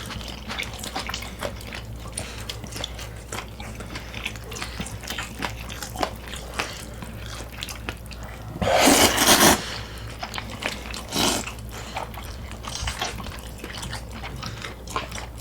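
Close-miked eating sounds: chewing, wet mouth noises and small clicks of utensils on the dishes. There is a louder noisy burst lasting about a second around nine seconds in, and a shorter one soon after.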